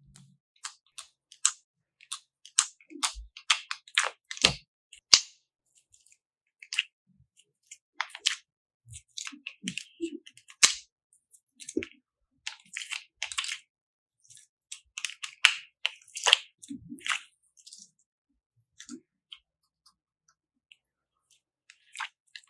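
Slime being squished and worked by hand: an irregular run of short wet clicks and crackly pops, with brief quiet gaps between them.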